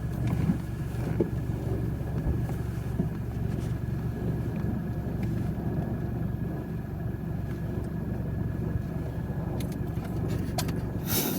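Steady low engine rumble of a motor vehicle running, with a faint steady whine above it. A short hissy rustle comes near the end.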